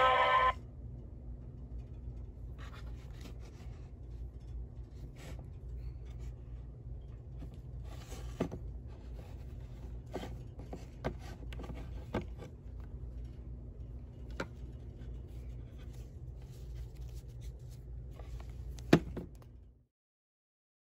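The last of the singing cuts off just after the start, leaving a faint steady low hum with scattered light clicks and scrapes and one sharper click near the end. The sound then cuts out completely.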